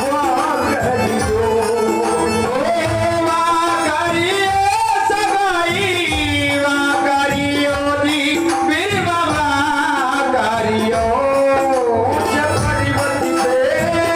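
Indian folk devotional music: a gliding melody carried over steady drumming.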